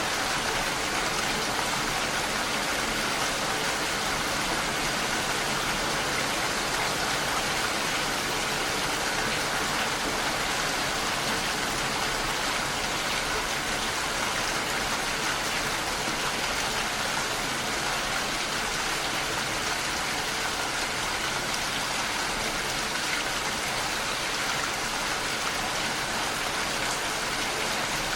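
Heavy rain falling steadily, an even hiss of rain on a window.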